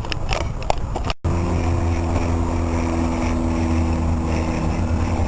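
An engine running steadily with a low, even hum, coming in after a sudden break about a second in.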